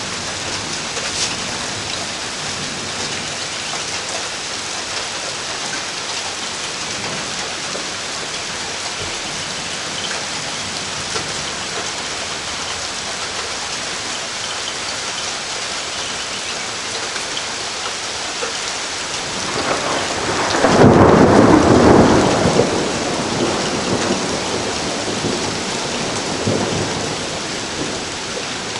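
Steady rain falling. About two-thirds of the way through, a deep clap of thunder rumbles in, swells to the loudest point and fades out over several seconds.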